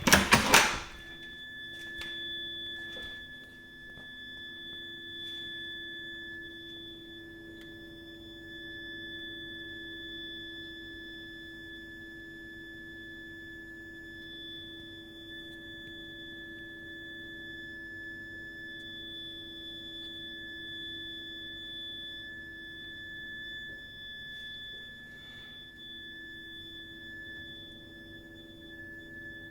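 Heating system heat interface unit (HIU) and its pipework giving off a continuous shrill, high-pitched whistle: one steady tone with a fainter overtone above it and a lower hum beneath. This is an abnormal fault noise that goes on for hours even when no heating or hot water is in use. A brief loud knock sounds right at the start.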